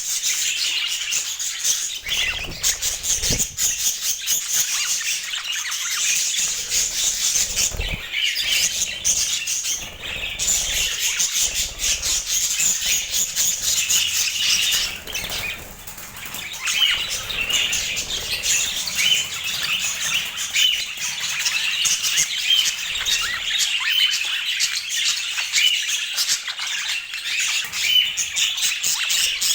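A flock of budgerigars chattering with a busy, continuous stream of chirps and warbles, and a few low thumps.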